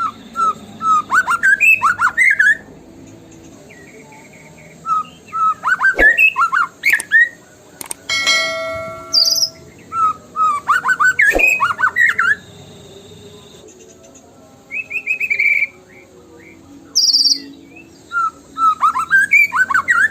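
White-rumped shama (murai batu) singing: loud bursts of fast, sweeping whistled and chattering phrases every few seconds, with a harsher rattling call about eight seconds in.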